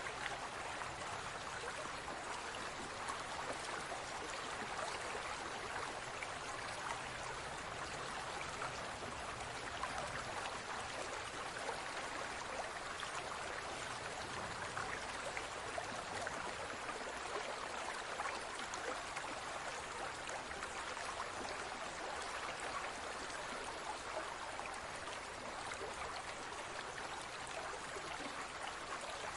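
Water in a large aquarium trickling and bubbling steadily, a constant splashy hiss dotted with tiny pops.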